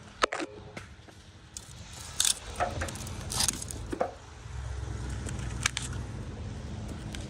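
Scattered short metallic clicks, clinks and scrapes, with a low vehicle engine rumble that comes in about halfway through and keeps going.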